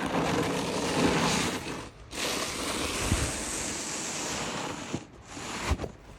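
Snow pusher blade on a hand truck scraping and shoving snow along a driveway in two long pushes, the second starting about two seconds in, with a knock near the end.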